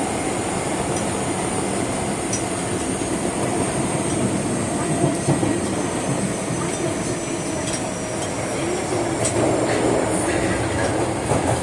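Osaka Metro 22 series subway train running through a tunnel, heard from inside the car: a steady rumble of wheels on rail with faint high tones that drift slowly down in pitch, and a few sharp clicks from rail joints near the end.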